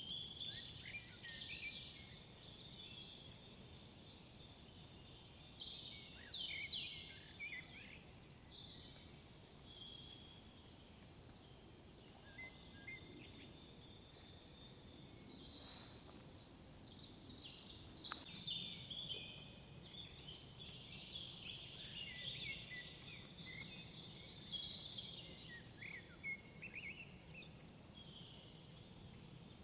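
Several songbirds singing and calling over one another, their phrases coming every few seconds, with a high rapid trill repeated three times. Under them runs a faint, low, steady background rumble.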